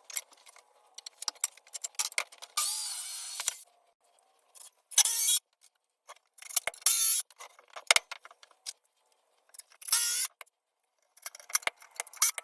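A small power tool runs in short bursts: about a second once, then three half-second bursts whose pitch bends as it loads up. Sharp clicks and knocks of handling wood and metal hardware fall between the bursts.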